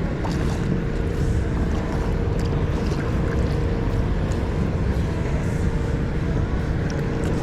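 Wind rumbling on the microphone over open water, with a steady engine hum from a motorboat in the channel and a few light water splashes.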